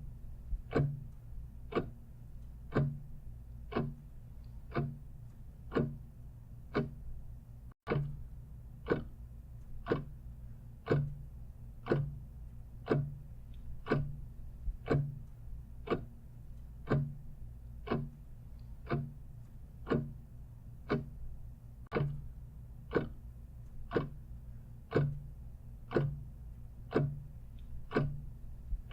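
Clock ticking steadily, about one tick a second, over a faint low hum. The sound cuts out for an instant about eight seconds in.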